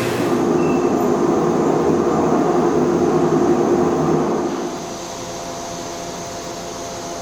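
Steady mechanical hum with a few constant tones, dropping to a quieter level a little past halfway.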